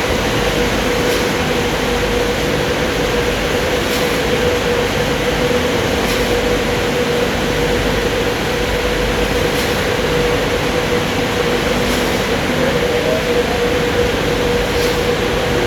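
Kleindienst California EUROWS rollover car wash machine running: a loud, steady wash noise with a steady mid-pitched motor hum and faint ticks about every two seconds.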